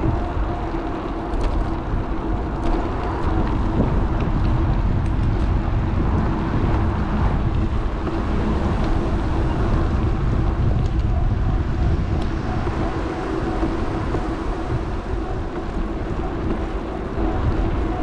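Wind buffeting the microphone and rolling road noise from an electric bike in motion, with a steady hum underneath.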